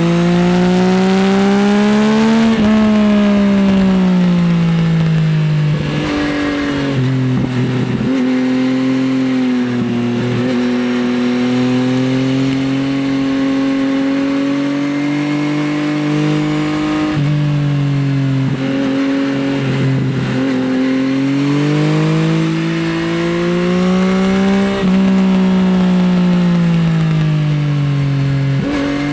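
Yamaha XSR900 SP's three-cylinder engine through an Akrapovič exhaust, heard from the rider's seat while riding. The revs climb and fall over a few seconds at a time, with several gear changes and a steadier cruise in the middle.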